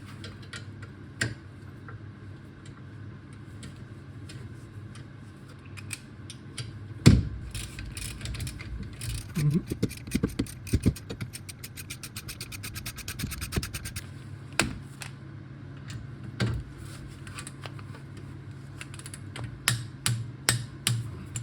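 Metal clicks and knocks of hand tools working on a BMW E46's rear brake caliper and pads, over a steady low hum: a loud knock about seven seconds in, a quick run of clicks around the middle, and steady repeated clicking near the end.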